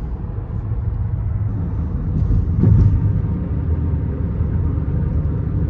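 Car driving, heard from inside the cabin: a steady low rumble of road and engine noise that swells briefly a little under halfway through.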